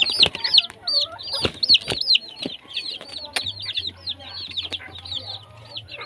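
A brood of baby chicks peeping continuously, many short high peeps overlapping, with a few sharp clicks among them.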